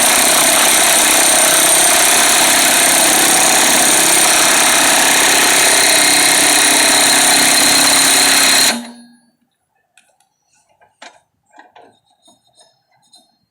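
A handheld power tool running steadily for about nine seconds, spinning a newly installed mower-deck spindle, then stopping and winding down quickly. A few light clicks and knocks follow.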